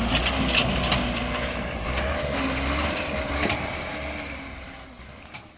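A heavy vehicle's engine rumbling, with scattered clicks and knocks over it, fading away near the end.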